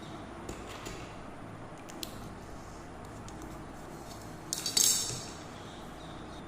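A short clatter of hard objects clinking together, about four and a half seconds in, over faint steady room noise with a few light ticks.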